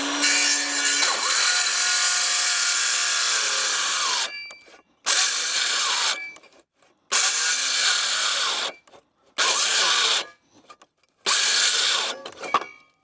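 Electric power saw cutting a wooden board: the motor spins up and runs for about four seconds, then four shorter bursts follow with pauses between them.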